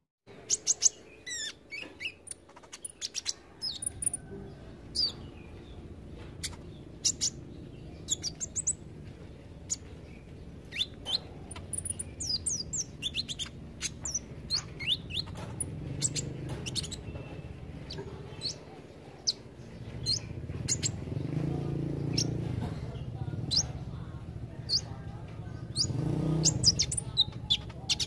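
Olive-backed sunbird (kolibri ninja) singing: rapid, sharp, high chirps and quick thin whistles in busy bursts, over a low background rumble that swells and fades a few times.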